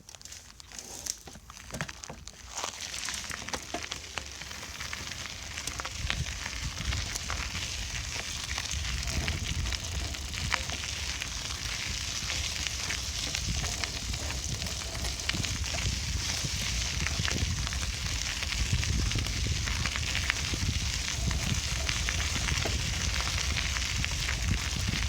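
Noise of a bicycle on the move: a steady crackle of tyre and drivetrain noise over a low wind rumble on the microphone. It grows louder over the first few seconds, then holds steady.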